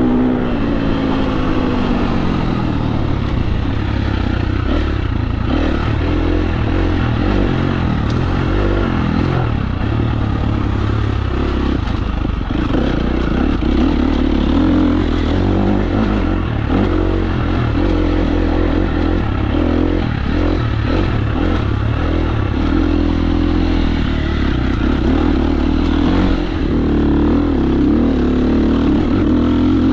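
KTM 350 SX-F dirt bike's single-cylinder four-stroke engine running on the trail, its pitch dropping in the first second and then rising and falling with the throttle.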